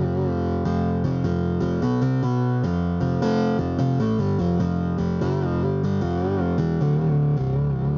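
Omnisphere software synthesizer played from a keyboard: a steady run of notes and chords changing every fraction of a second, some of them wavering and bending in pitch.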